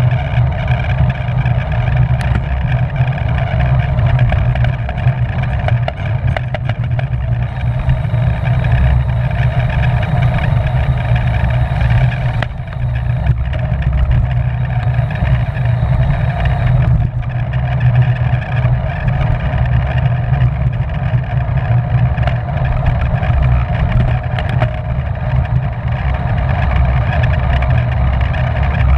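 Steady heavy wind noise buffeting the microphone of a camera on a racing bicycle moving at speed, mostly a low rumble, with no let-up.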